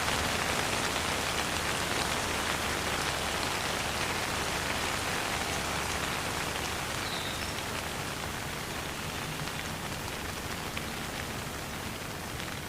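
Steady rain falling, an even, continuous patter of drops on surfaces with no thunder, easing slightly in loudness over the second half.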